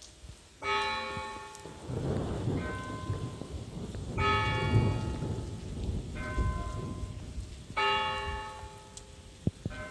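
Church bells ringing over steady rain: two bells of different pitch struck in turn, one strike about every two seconds, each ringing on and fading. Low rumbling noise comes and goes underneath.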